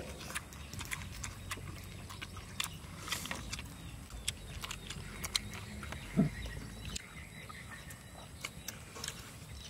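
A person chewing crispy fried pork, with many short sharp crunches scattered throughout; a brief low sound about six seconds in is the loudest.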